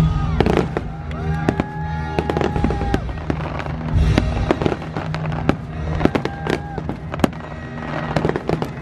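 Aerial fireworks going off: many sharp bangs and crackles in quick, irregular succession, over electronic music with held synth notes and a steady bass.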